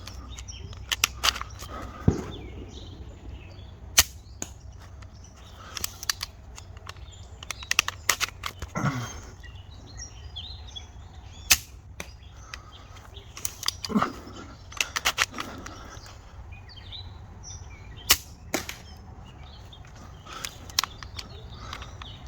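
3D-printed repeating crossbow pistol, band-powered, being shot and cycled repeatedly: sharp snaps of the bands releasing, with clusters of plastic clicking from the pump action between shots.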